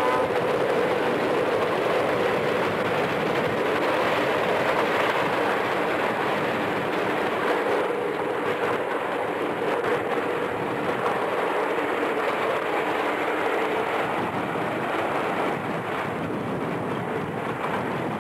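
Union Pacific diesel passenger train running past: a steady rumble of locomotive engines and rolling wheels that slowly fades as the train draws away.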